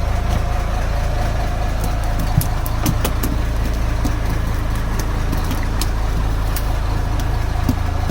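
Fishing boat's engine idling steadily, a low even hum, with scattered light clicks over it.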